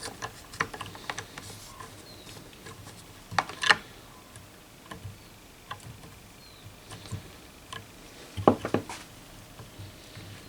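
Scattered small clicks and taps of hands and a tool working a control knob loose from a radio's front panel, with two louder clatters about three and a half and eight and a half seconds in.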